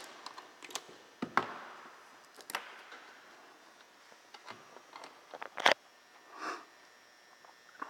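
Scattered light clicks and knocks of tools and engine parts being handled, with one sharper knock a little past halfway.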